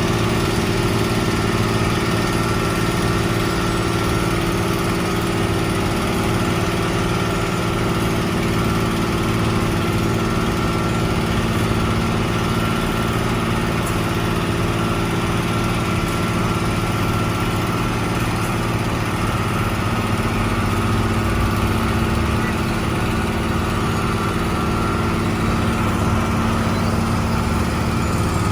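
Engine of a heavy construction machine running steadily, with an even, unchanging hum.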